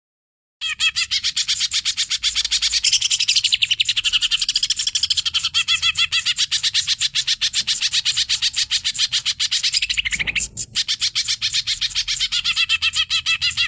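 Greater green leafbird (cucak ijo) singing a fast, unbroken run of chirping notes, with a brief pause about ten seconds in.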